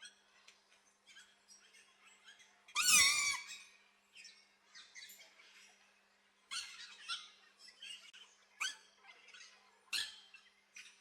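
Aviary birds calling: one loud call with a wavering pitch about three seconds in, then a scatter of short chirps through the second half.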